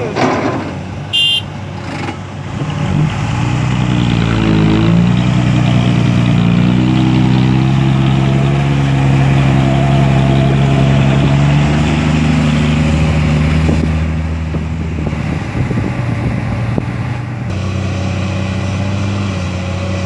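Diesel engine of a Komatsu PC200 excavator working: it revs up a few seconds in, holds at high revs under hydraulic load for several seconds, then drops back toward a lower speed near the end.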